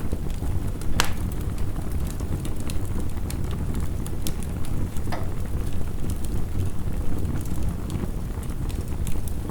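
Wood fire crackling with scattered sharp pops, the clearest about a second in, over a steady low rush of heavy rain.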